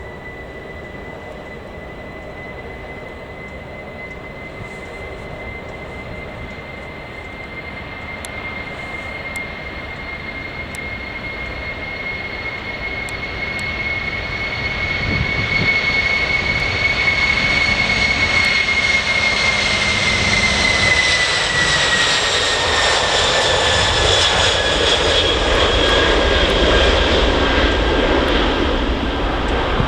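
Boeing 747-400 jet engines growing louder as the jumbo jet approaches and passes, a high fan whine over a rising rumble; about two-thirds of the way through, the whine drops in pitch as the aircraft goes by.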